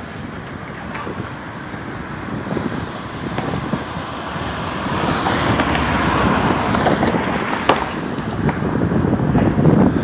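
Road traffic noise: a vehicle passing that swells to its loudest about two-thirds of the way through and then fades, with wind buffeting the microphone and a sharp click near the end.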